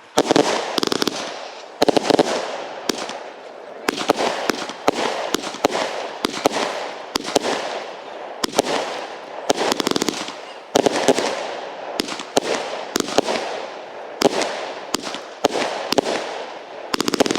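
Fireworks going off without a break: a run of sharp bangs, each trailing off in crackle, with bursts of rapid-fire cracks near the start, about ten seconds in, and near the end.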